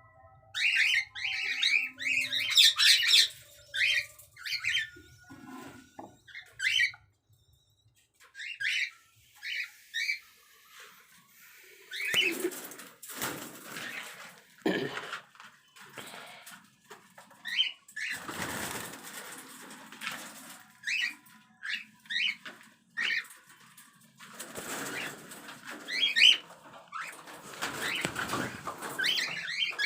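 Cockatiels chirping in many short, high calls, with repeated bursts of rustling, fluttering noise from about twelve seconds in.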